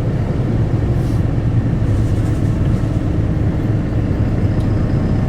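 Cabin sound of an Isuzu Erga city bus (QKG-KV290N1) running: a steady low drone from its four-cylinder diesel engine and drivetrain, with no sharp events.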